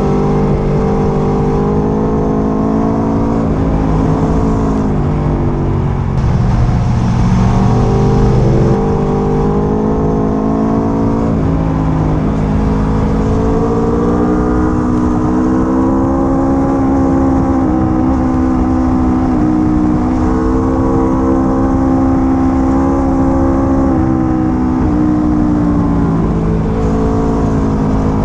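Sport motorcycle engine running under way, its pitch rising under throttle and dropping back several times through the gears, over a low rumble of road and wind noise.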